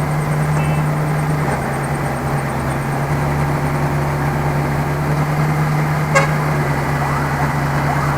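Heavy diesel machinery engine running steadily with a deep, even hum, and a single sharp click or clank about six seconds in.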